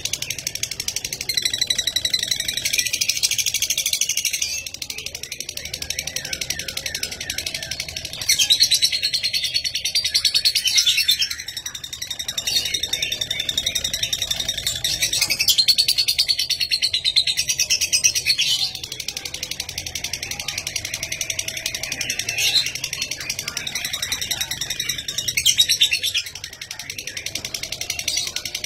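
Lovebird chattering in long, rapid, high-pitched trilling bouts of several seconds each, the fast chatter lovebird keepers call 'ngekek' and 'ngetik', with short breaks between bouts.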